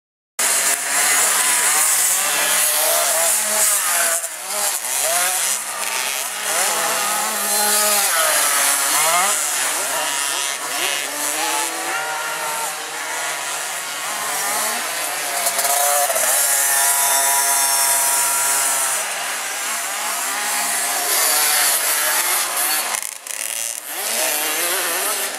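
Several 50 cc two-stroke motocross bikes racing, their high-pitched engines overlapping and revving up and down as they accelerate and back off.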